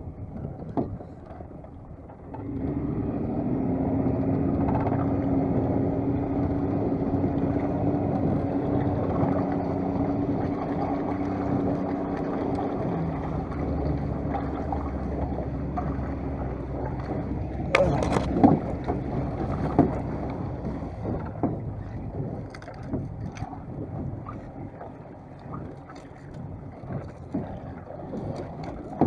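A small fishing boat's engine starts running steadily about two seconds in as the boat gets underway, with water and wind noise around it. A sharp knock comes a little past the middle, and the engine sound eases off toward the end.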